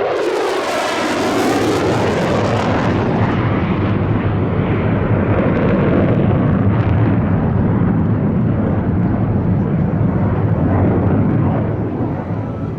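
Jet aircraft engine noise, loud, with a hissing high end that sweeps and fades over the first three seconds as the jet passes, then a steady rumble.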